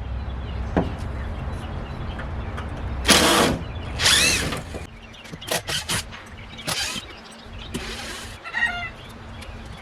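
Chickens clucking and giving short squawking calls, a couple in the middle and another near the end, over a steady low rumble, with a few sharp knocks in between.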